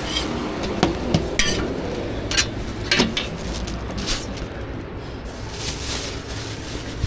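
Metal cooking utensils knocking and clinking against pans during street-food frying, about a dozen irregular sharp taps and clatters over a steady low rumble.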